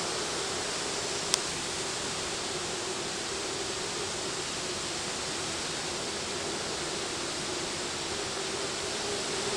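Steady rushing noise of tropical-storm wind, with one sharp click about a second in.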